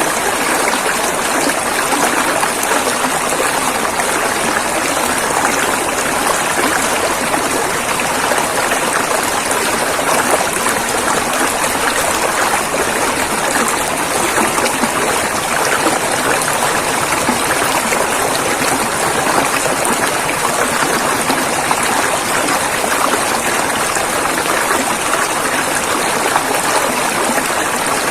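Flowing river water, a steady rushing of rapids.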